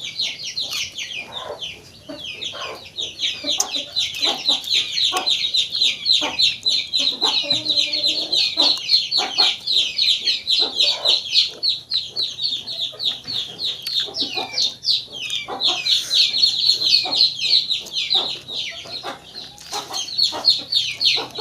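Chickens: a continuous run of rapid, high-pitched peeps, several a second, with lower clucks and clicks scattered among them.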